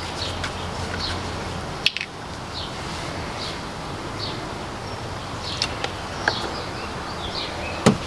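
Outdoor background hum with short, repeated high bird chirps, and a few sharp clicks and rustles as a cloth and an alcohol prep pad are handled.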